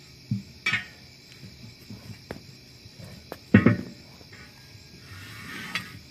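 Scattered knocks and clanks of tools and metal during a truck tire change, the loudest about three and a half seconds in, over crickets chirring steadily.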